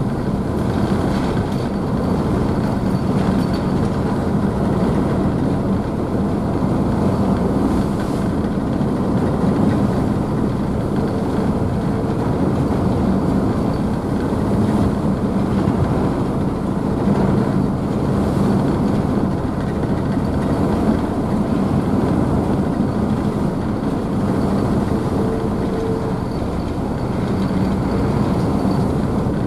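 Car ferry's diesel engines running steadily under way, a constant low hum over a rushing wash of propeller wake and spray.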